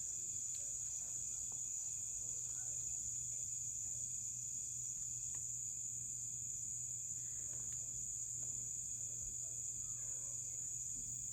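Steady, continuous high-pitched insect chorus, the trilling of many insects at once, with a faint low hum under it and a few soft rustles.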